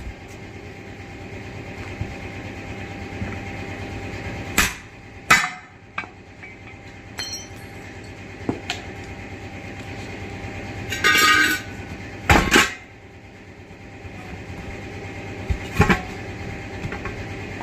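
Several sharp metal-on-metal blows and clanks a second or several seconds apart, with a ringing clatter in between, from tools working on a 10.00-20 truck tyre and its steel rim, over a steady background rumble.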